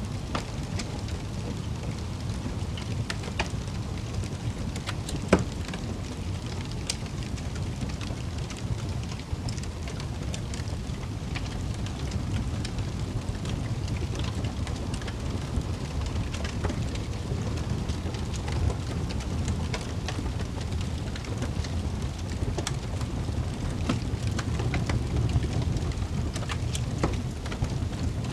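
Wood fire in a fireplace crackling, with scattered small pops over a steady low rumble; one sharper pop about five seconds in.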